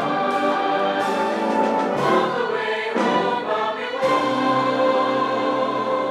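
A high school choir singing with an orchestra and wind band in a Christmas medley, with sustained chords and a steady beat about once a second.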